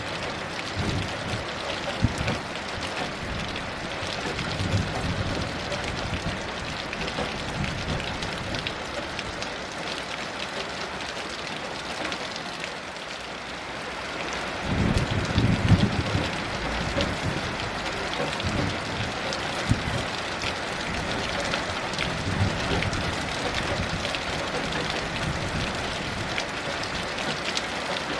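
Heavy rain falling steadily, with a low rumble of distant thunder swelling about halfway through.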